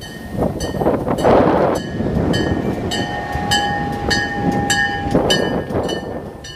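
Train running, with rumble and knocks, a regular ringing about twice a second, and a steady tone that sounds for about two seconds in the middle.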